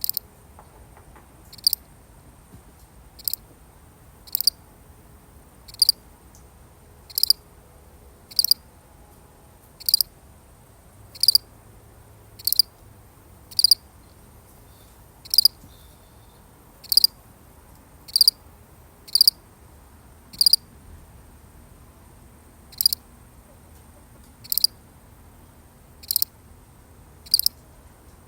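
A single cricket chirping: short, high chirps repeated about once every second and a half, with one slightly longer pause past the middle.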